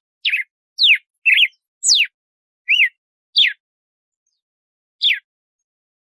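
Red-cowled cardinal (galo-de-campina) singing its 'açoite' song: a run of short, loud whistled notes, most of them falling in pitch, about two a second, then a pause and a single last note near the end.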